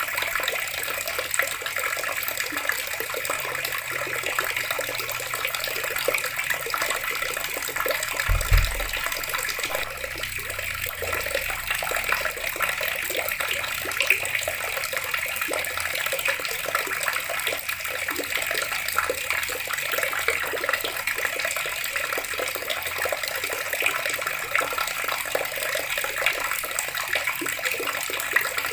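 Water running steadily from a tap, an even splashing hiss. A brief low thump sounds about eight seconds in.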